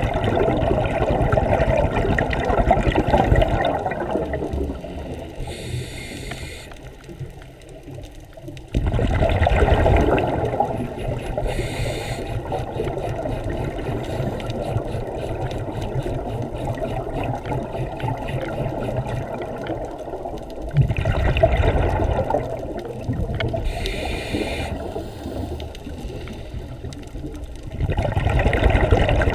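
Scuba diver's exhaled bubbles from a regulator heard underwater: four loud bubbling surges spaced several seconds apart, with short hisses and a steady lower rushing between them.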